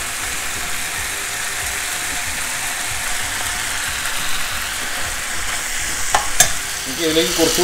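Beef, chorizo and sliced peppers sizzling steadily in a frying pan while a metal spatula stirs them, with two sharp clicks of the spatula against the pan about six seconds in.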